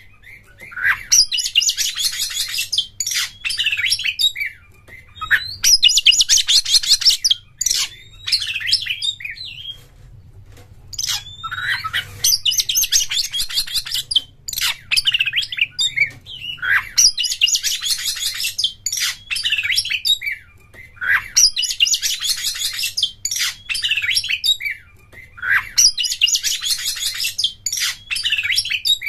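Oriental magpie-robin (kacer) singing in repeated bursts of rapid, high chattering trills, a new phrase every few seconds, over a faint low hum.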